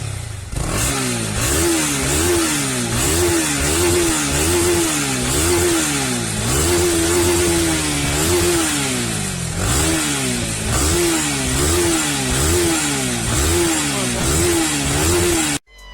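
Honda CB300R's single-cylinder engine revved over and over through the exhaust, its note rising and falling about once a second, with one longer held rev midway. It cuts off suddenly near the end.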